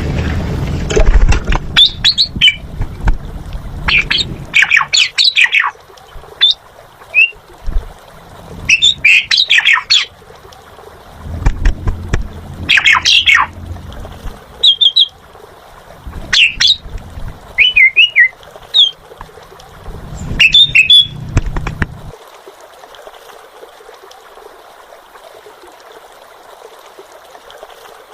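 Asian pied starling (jalak suren) singing in loud bursts of varied whistles, chatters and squawks, about ten phrases with short gaps between them, falling silent near the end.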